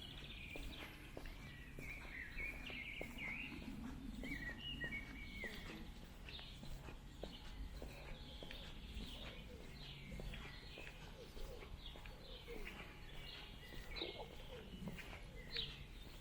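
Songbirds chirping and singing in short phrases, thickest in the first few seconds and again near the end, over steady outdoor background noise, with faint footsteps of someone walking.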